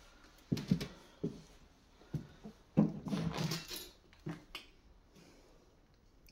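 A handful of irregular knocks and scuffs in a small indoor space, with a longer rustling scrape about three seconds in, then only faint room tone.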